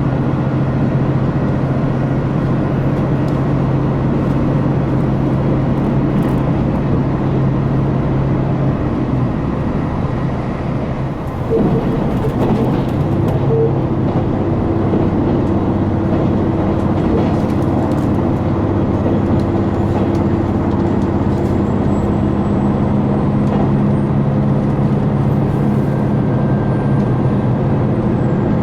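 Diesel engine of a KiHa 261 series express train running under power, heard from inside the passenger car as a steady, loud drone. About eleven seconds in the sound dips and then shifts suddenly to a different engine note.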